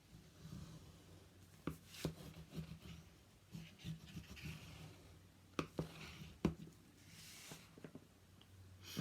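Paper pages being rubbed as score tape on them is burnished down, a dry rubbing on paper with a few sharp taps and knocks from handling.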